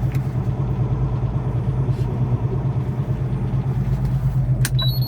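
Semi truck's diesel engine running steadily at low speed, a constant low hum heard from inside the cab. Near the end a sharp click and a short high beep.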